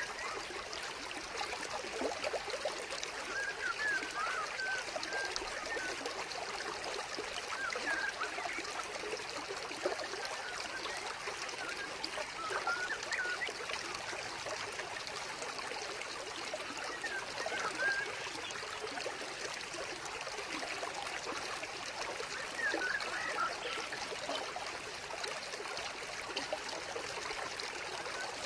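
Water trickling steadily from a small vivarium waterfall into the pool, with scattered little droplet plinks.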